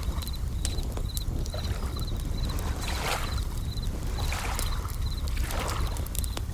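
Bell crickets chirping in short repeated pulses, over the crackle and snap of a campfire, waves washing in and out, and a steady low rumble.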